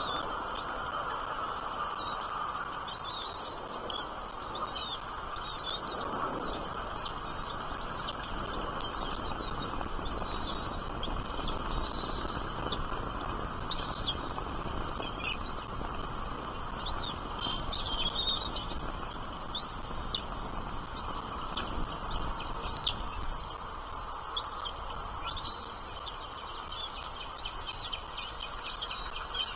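Small birds chirping in many short, high calls, scattered irregularly, over a steady background hiss.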